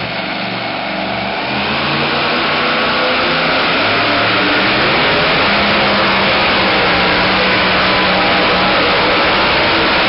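A super modified two-wheel-drive pulling truck's engine running hard at high revs. It gets louder about two seconds in, then holds steady.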